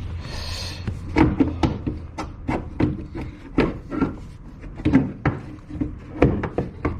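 Car wiper mechanism being slid and worked into place in the scuttle under the windscreen: a brief scrape near the start, then irregular knocks and clicks as the linkage bumps against the body.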